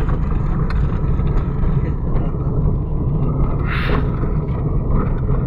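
Steady low rumble of a repaired Mitsubishi Mirage on the move during a road test: engine and road noise, with a brief hiss about four seconds in.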